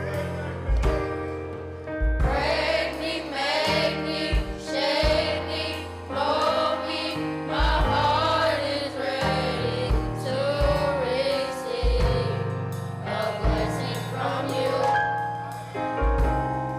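Gospel choir singing with a live band of keyboard, bass and drums; the voices come in about two seconds in, over sustained chords and a steady beat.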